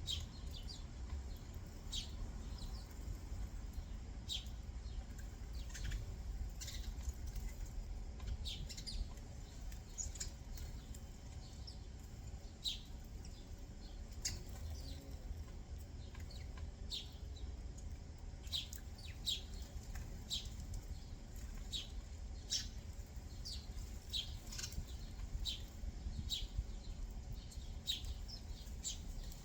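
Backyard songbirds chirping: many short, separate chirps and calls, scattered unevenly, over a steady low rumble.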